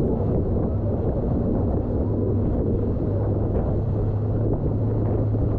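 Tour boat's motor running steadily under a wash of rushing water, with wind buffeting the microphone.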